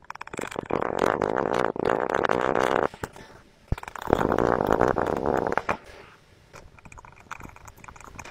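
Slime being squeezed and pressed, squelching and crackling with trapped air in two long stretches, then quieter scattered pops.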